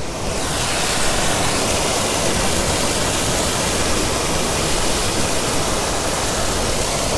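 Steady, loud rush of falling water, an even hiss from low to very high pitch with no distinct drops or beats. It comes in suddenly at the start and holds level throughout.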